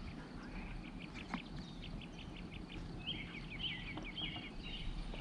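Birds chirping over quiet outdoor background noise: a quick run of short chirps, then a warbling song about three seconds in. A single light knock about a second and a half in.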